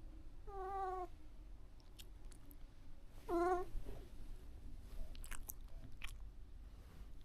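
A cat meowing twice, each meow short and wavering, with a few faint small clicks between.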